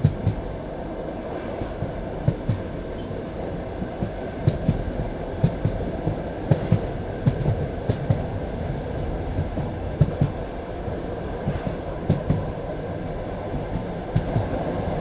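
Passenger railway carriage running along the track: a steady rumble with the wheels knocking over rail joints in uneven clusters of clickety-clack.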